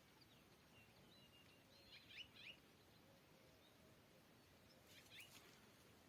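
Near silence with faint bird chirps: a short cluster of quick high calls about two seconds in and another near the end, over a low steady hiss.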